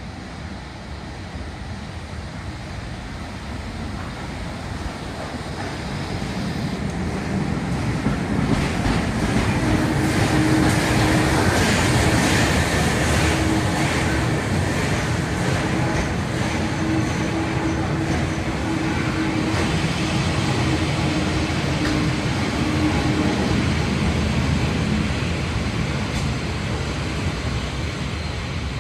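Train rolling past, made up of a Gr 625 steam locomotive and four carriages. The noise builds over about ten seconds, holds, and eases near the end, with a run of rapid clicks at its loudest.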